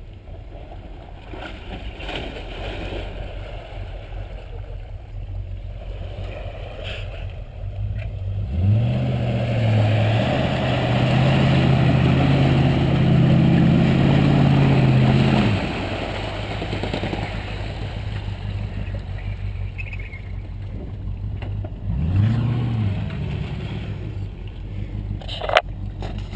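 Range Rover's 3.9-litre V8 engine working the 4x4 through a muddy rut. About a third of the way in it revs up and holds high revs for around seven seconds as the car climbs out, then drops back. Near the end a second, shorter rev rises and falls.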